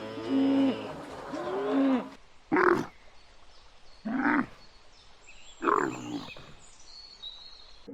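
Repeated pitched cooing calls for about two seconds. After a cut, a big cat gives three short, deep calls about a second and a half apart.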